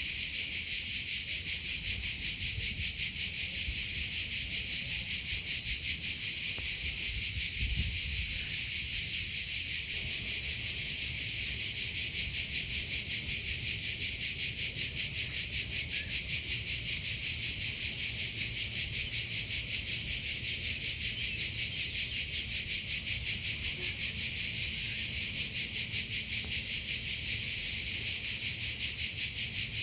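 Cricket chirping: a high-pitched trill in rapid, even pulses that keeps on without a break, over a faint low rumble.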